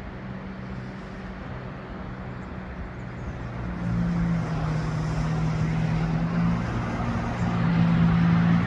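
Jet ski engines running with a steady drone that grows louder about four seconds in.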